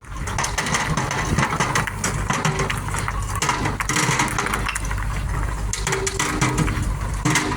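Butzer-EVR ESS T2 mobile star screen running: a steady engine hum under frequent irregular clattering and knocking of stones and soil passing over the rotating screen stars.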